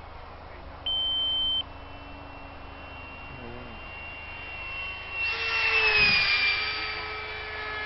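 A single electronic beep about a second in, then an electric radio-control model jet whining past close: it grows loud about five seconds in and drops in pitch as it goes by.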